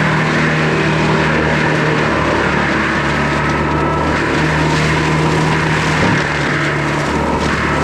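Skid steer engine running hard with a forestry mulcher head spinning and chewing through brush and wood, a steady drone that dips briefly about six seconds in.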